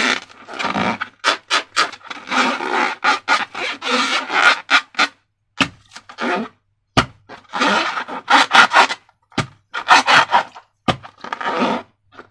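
Slime being squeezed and worked by hand, a string of sticky rubbing and crackling noises in uneven bursts, with short snaps and brief pauses.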